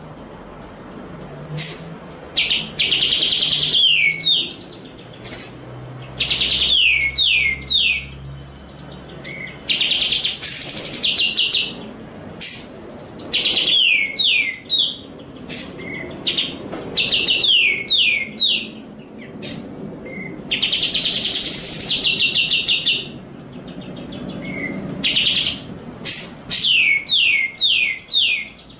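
A songbird singing clear, repeated phrases with short pauses between them. Each phrase has a swooping whistle, a fast trill, and a quick run of three or four falling notes.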